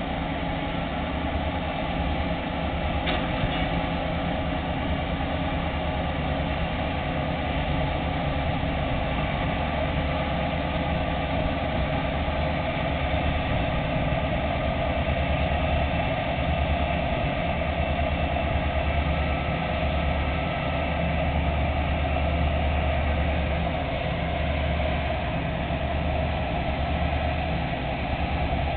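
Towboat's diesel engines running steadily as it pushes barges, a low, even hum that holds its pitch.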